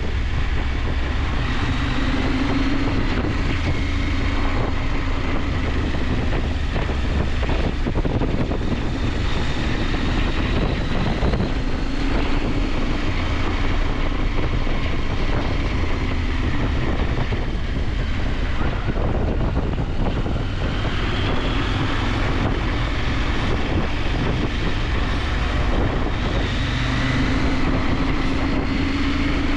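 KTM 890 Adventure's parallel-twin engine running under way, its pitch rising and falling gently with the throttle, under a steady rush of wind on the microphone.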